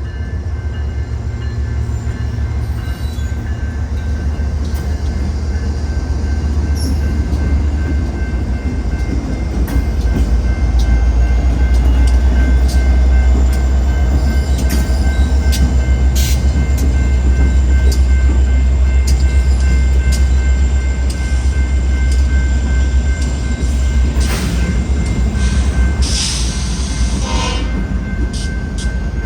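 Diesel locomotive engine of a BNSF SD70ACe running close by, a deep steady drone that swells and grows louder midway as the switching train moves through the crossing. A steady ringing of the crossing bell and occasional clanks from the railcars sound over it.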